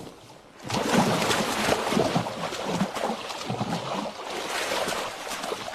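River water splashing and churning, starting about a second in and going on in irregular surges.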